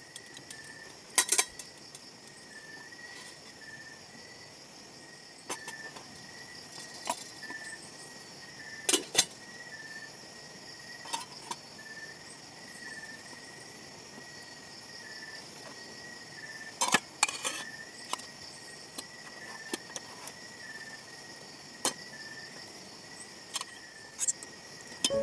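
Insects chirping and buzzing steadily in a high, even chorus with a pulsing chirp, broken every few seconds by sharp clinks and knocks, the loudest about a second in and again twice later.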